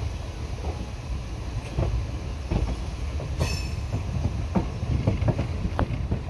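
Indian Railways passenger coach rolling over rails and points, heard at the open door: a steady low rumble broken by irregular clacks of the wheels over rail joints and switch crossings, with a brief sharp metallic squeal about three and a half seconds in.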